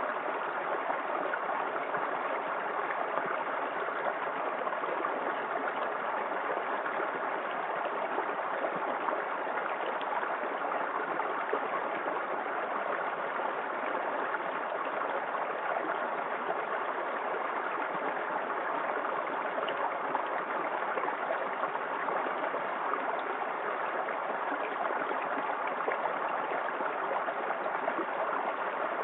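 Small waterfall in a forest creek, water pouring and rushing in a steady, unbroken stream.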